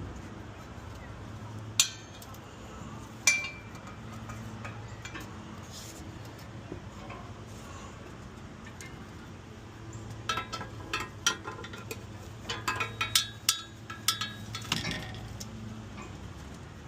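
Small metal objects clinking against each other: two single sharp clinks, then a quick run of ringing clinks and clatter about ten seconds in, over a low steady hum.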